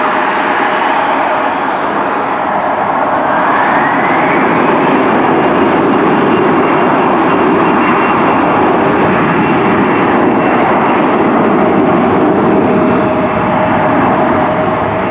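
Jet aircraft engines running loud, with a high whine that rises about three to four seconds in and then holds steady as the engines spool up.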